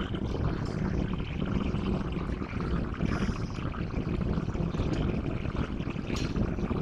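Diesel locomotive idling: a steady low rumble with a faint hum.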